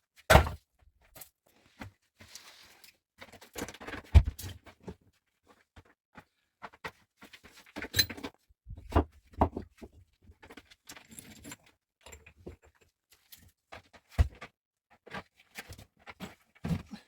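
Irregular clicks, taps and light knocks of objects being handled, with a few louder thumps: one just after the start, one about four seconds in, one near fourteen seconds and one near the end.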